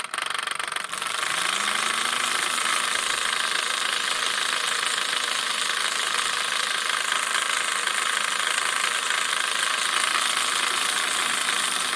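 Marx O gauge toy diesel switcher locomotive running with a loud, steady buzzing rattle; its motor hum rises as it gets going about a second in. The rattle comes from a magnet-and-spring rattler inside, which the owner takes for one of the early diesel locomotive sound makers rather than a fault.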